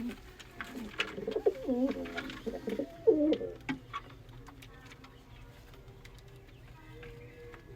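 Domestic pigeons cooing, low throaty calls that swell and bend in pitch, with scattered light clicks. The cooing stops about four seconds in, and faint steady tones follow.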